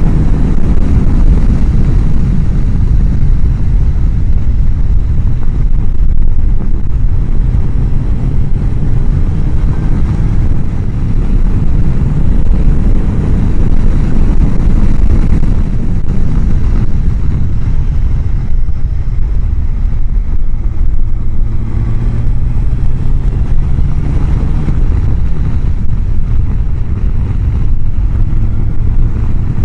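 Riding on a Honda CBR1000F motorcycle, heard from a microphone inside the helmet. A heavy, steady wind rumble from air rushing through the chin-bar vent onto the mic drowns most of the sound. The inline-four engine's drone shows faintly through it, its pitch drifting slowly with road speed.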